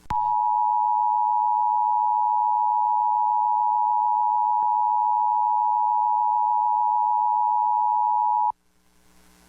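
Emergency Alert System attention signal: a loud, steady two-pitch tone (853 and 960 Hz) announcing a National Weather Service flash flood warning. It lasts about eight and a half seconds and cuts off suddenly.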